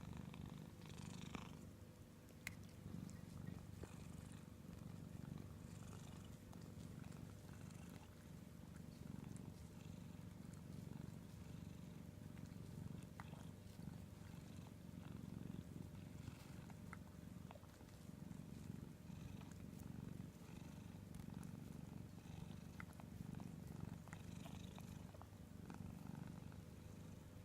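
Domestic cat purring steadily on a lap, a soft low rumble that swells and fades in slow cycles with its breathing.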